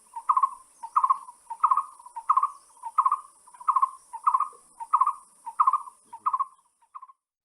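A bird calling one short note over and over, about one and a half notes a second, over a steady high hiss. It cuts off abruptly about seven seconds in.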